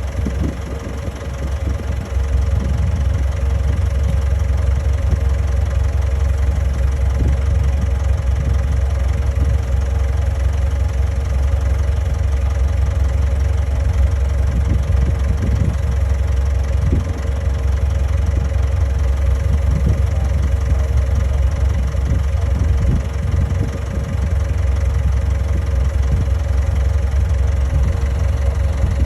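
Komatsu D31A bulldozer's diesel engine running steadily: a deep drone with a constant whine above it, growing louder about two seconds in.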